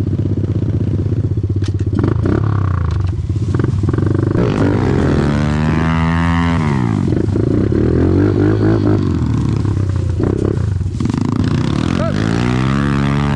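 Off-road vehicle engine running on the trail under changing throttle, its pitch climbing and dropping several times, with a big rev up and back down about halfway through and another climb near the end.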